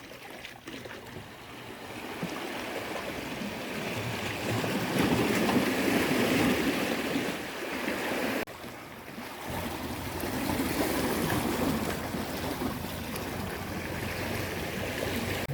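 Sea water washing and splashing, swelling up and easing off twice, with a sudden break about eight seconds in.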